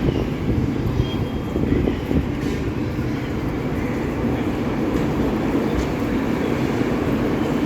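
Train running on the track: a steady, dense rumble of wheels and carriages, with a few short knocks in the first couple of seconds.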